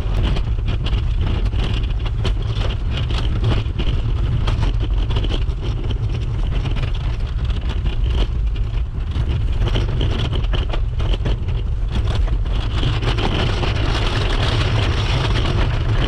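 Kick scooter wheels rolling steadily over a snowy path, a continuous low rumble with many small clicks and crunches.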